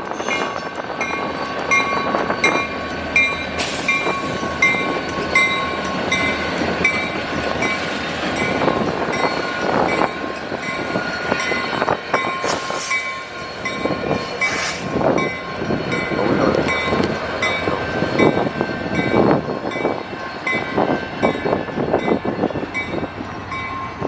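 Canadian National freight train passing, locomotives running and wheels clicking and clattering over the rails, with a bell ringing in a steady rhythm.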